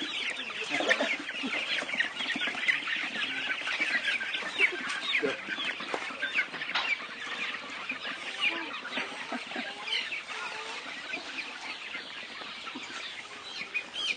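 A flock of chickens clucking, many short overlapping calls forming a dense chorus that eases off a little in the second half.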